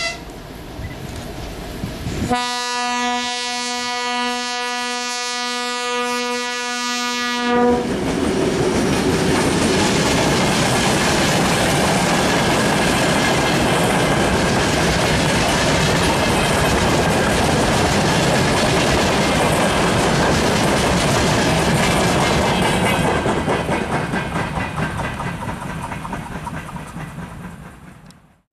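Train horn sounding one long blast of about five seconds, then the train passing close at speed, its wheels clattering over the rail joints in a loud steady rush that fades away as it goes.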